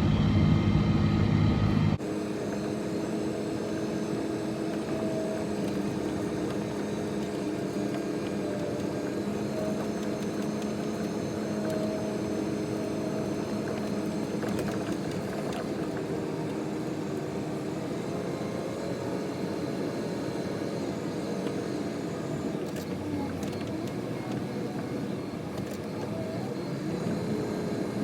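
Snow-plow vehicle's engine running steadily, its pitch rising and falling slightly with the throttle. About two seconds in, the sound drops abruptly to a quieter, steadier engine note.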